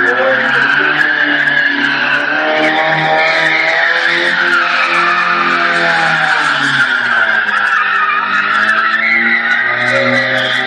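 Car tyres squealing continuously in a long skid while the engine revs, its pitch slowly rising and falling.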